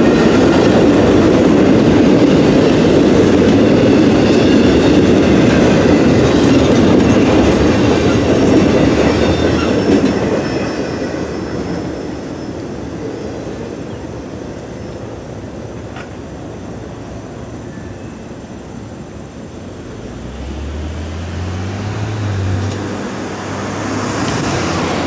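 CSX intermodal freight train rolling past, flatcars loaded with highway trailers rumbling and clacking over the rail joints; the sound fades away about ten seconds in as the tail end goes by. Near the end a car engine picks up as road traffic drives over the crossing.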